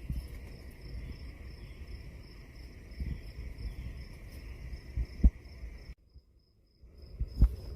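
Crickets chirping in an even, rapid pulse over a steady insect drone, with a low rumble underneath. Two sharp thumps come about five and seven and a half seconds in, and the sound drops out for about a second between them.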